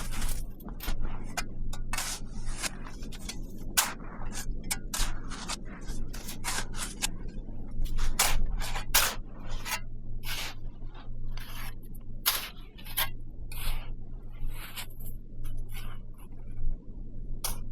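Repeated short scraping sounds at an uneven pace, a few a second, over a steady low hum.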